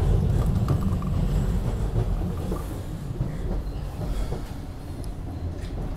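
Market-Frankford Line rapid-transit train running on its tracks, heard from inside the car: a steady low rumble of wheels and car with a few light ticks, growing gradually quieter.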